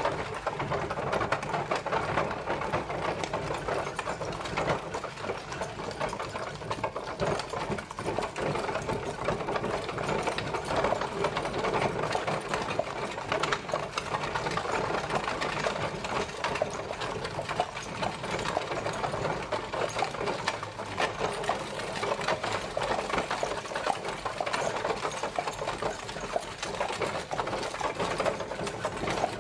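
Horse-drawn carriage travelling: a steady, rapid rattling clatter of the carriage rolling along.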